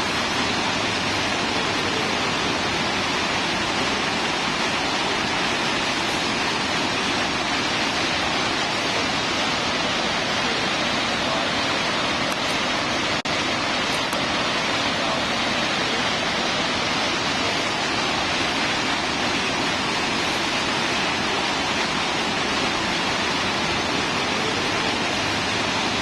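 Steady rushing roar of Snoqualmie Falls, a large waterfall. A single brief click about halfway through.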